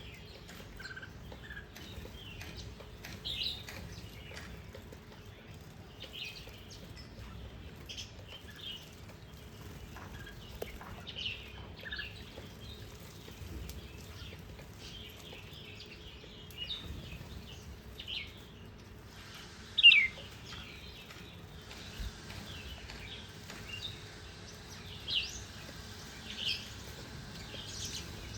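Small songbirds chirping: short, scattered calls at irregular intervals, with one louder, quick falling chirp about two-thirds of the way through.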